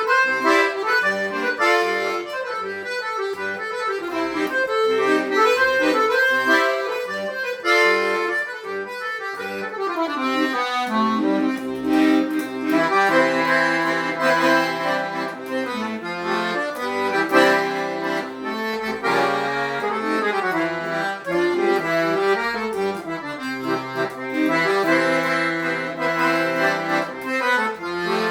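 Accordion playing a traditional instrumental tune, the melody carried over a stepping bass line.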